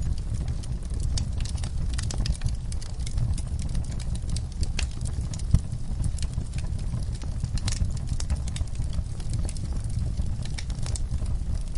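Wood fire burning in a fireplace: a steady low rumble of flames with frequent irregular crackles and snaps, and one louder pop about midway.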